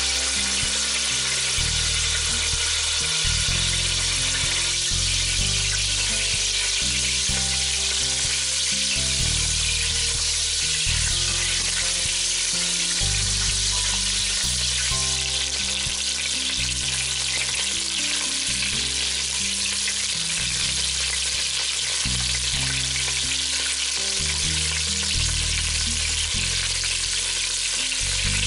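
Chicken pieces frying in oil in a stainless steel pot: a steady sizzle, with background music underneath.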